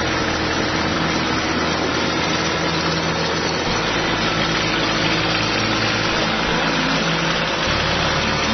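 Kubota L245 diesel tractor running steadily while driving an Agrator rotary tiller. The deep engine drone drops in pitch about four seconds in and comes back up near the end.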